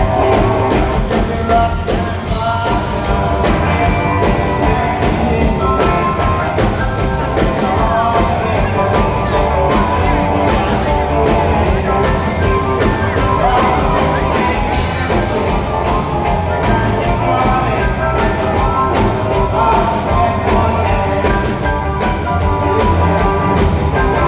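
A rock band playing loudly live: electric guitar over bass and drums.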